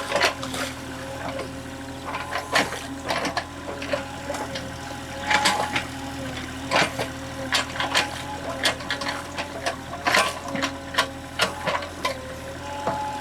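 Excavator engine running steadily under load, with many short, sharp splashes and knocks as the machine digs and moves through mud and water.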